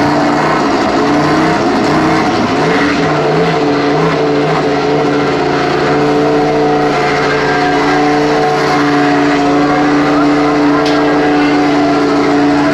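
KTM RC16 MotoGP race bike's V4 engine running at steady, held revs, wavering a little in the first few seconds and then holding constant.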